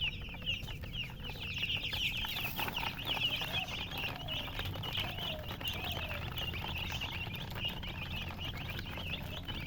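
A brood of baby chicks peeping nonstop in rapid, high-pitched chirps. A few lower calls from the mother hen come in about halfway through.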